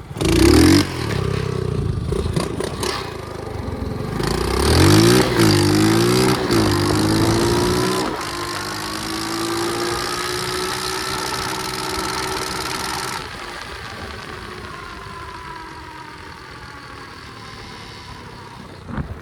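Pit bike engine accelerating hard, its pitch climbing in steep rises through the gears, then holding speed before the throttle is shut about 13 seconds in and the engine note falls away as the bike coasts.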